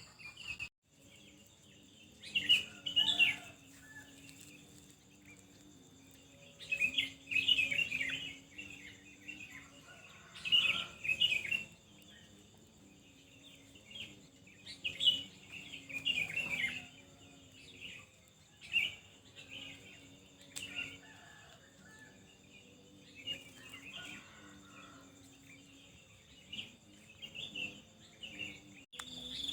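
Small birds chirping and twittering in short bursts every few seconds, over a faint steady high-pitched hum.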